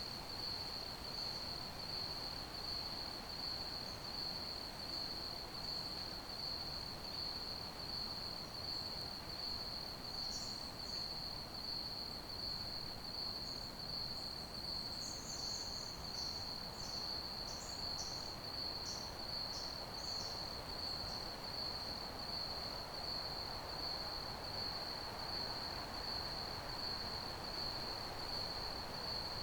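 Crickets chirping in a steady, continuous high-pitched trill over a soft background hiss. Around the middle a run of short, higher chirps joins in for several seconds.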